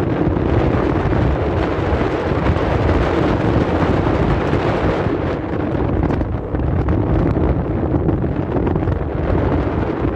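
Strong wind buffeting the microphone, a steady heavy rumble.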